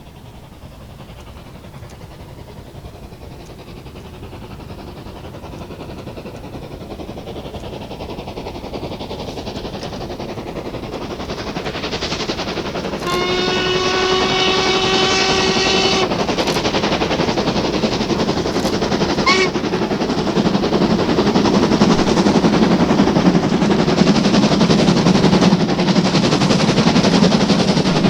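Steam locomotive drawing closer, its exhaust beats growing steadily louder; it sounds its whistle in one steady blast of about three seconds midway and gives a short toot a few seconds later, then the exhaust beats come loud and rapid as it passes.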